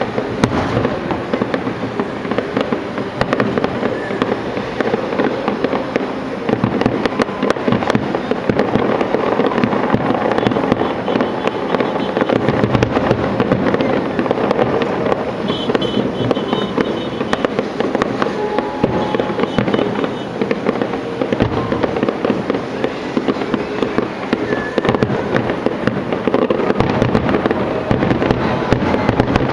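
Fireworks display going off without a break: dense, rapid bangs and crackling.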